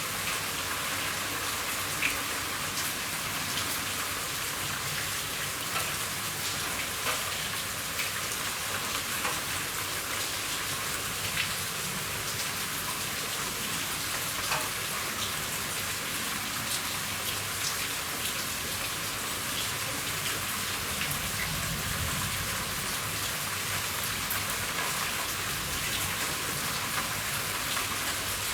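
Steady rain falling on a roof, an even hiss with scattered louder drops ticking on it.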